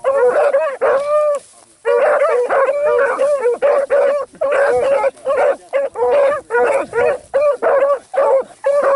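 A pack of hunting hounds baying in chorus while running a trail, several voices overlapping. A few drawn-out bawls come first, then after a brief pause a quick run of short, choppy barks.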